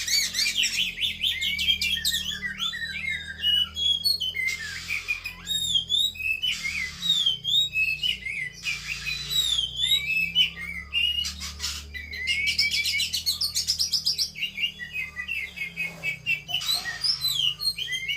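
Female oriental magpie-robin singing a fast, varied run of chirps and whistled notes, broken a few times by short hissing bursts.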